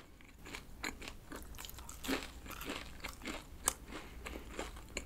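A person chewing a bite of crispy fried croquette-style bread (fried chicken bread), the fried crust giving irregular small crunches a few times a second.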